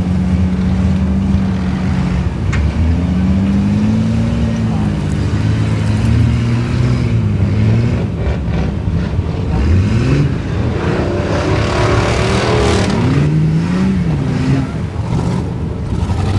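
Chevy 4x4 truck's engine revving hard through a mud pit, its pitch climbing and dropping again and again, with a sharp climb about ten seconds in.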